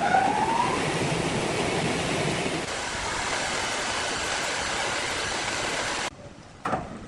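A power tool's motor spinning up, its whine rising over the first second or so. It then runs with a steady rushing noise that cuts off abruptly about six seconds in, followed by a couple of short knocks.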